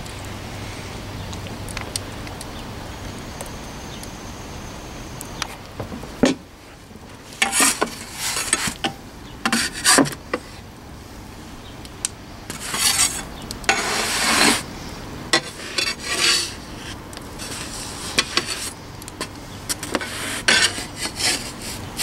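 Wood fire ticking and crackling inside a wood-fired oven. From about six seconds in, a metal-bladed peel scrapes again and again, at irregular intervals, across the oven floor as the loaves of bread are shifted around.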